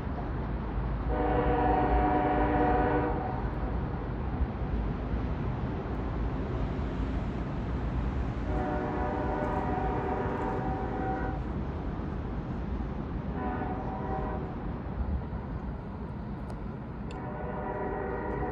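Diesel locomotive horn on a Union Pacific manifest freight train sounding the grade-crossing signal, long, long, short, long, over the steady rumble of the train.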